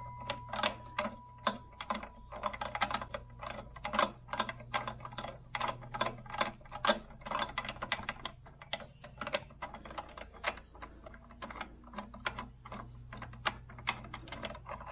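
Hand ratchet wrench clicking in quick, irregular strokes as a bolt is run in, over a low steady hum.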